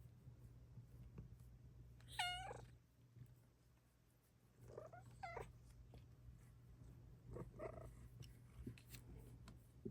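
Bengal cat meowing: one clear meow about two seconds in, a double meow around five seconds, and a fainter one near seven and a half seconds.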